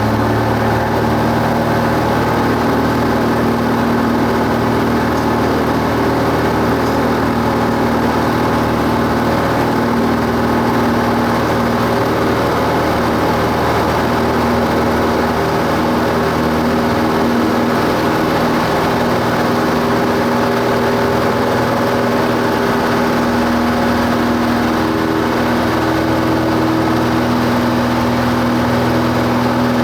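Cessna 172 Skyhawk's piston engine and propeller running at steady power, a continuous drone.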